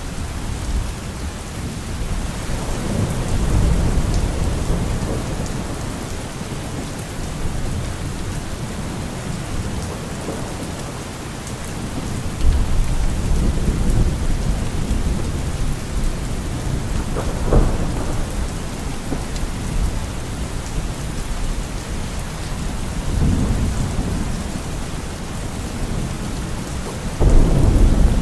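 Steady rain with thunder rolling in low rumbles several times, the sharpest clap about two thirds of the way through.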